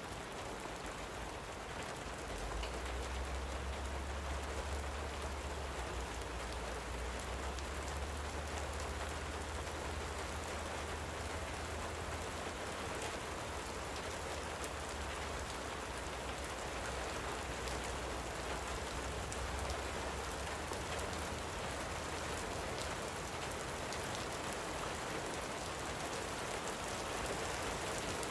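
Light rain falling steadily, with scattered drop ticks. A low rumble runs underneath from about two seconds in until about twenty seconds in.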